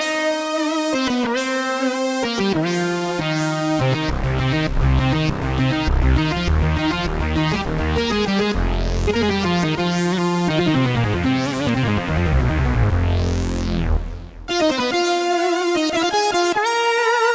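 Roland Jupiter-X synthesizer playing its 'Juiced Lead' scene preset: a bright lead-synth melody over a bass line that enters about four seconds in. The tone sweeps up and down in brightness through the phrase, and after a brief break near fourteen seconds a new phrase begins.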